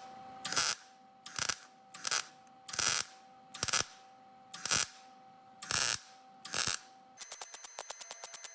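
Welder laying short stitch welds on the sheet-metal patch: eight brief crackling bursts about a second apart, with a steady hum between them.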